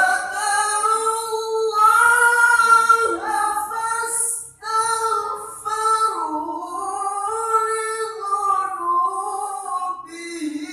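A single high voice in melodic Quran recitation (qiroah), holding long, ornamented notes that waver and slide in pitch, with a short breath break about halfway through.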